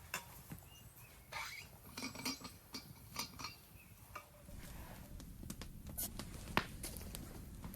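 Camp cookware and utensils handled, with scattered light clinks and knocks and one sharper strike near the end.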